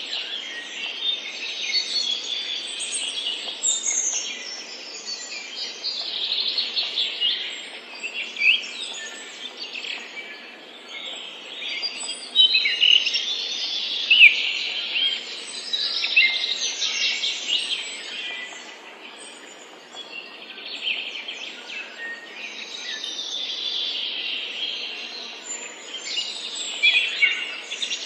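Several birds chirping together, a dense run of overlapping short, high chirps and quick glides that never stops, over a steady faint hiss.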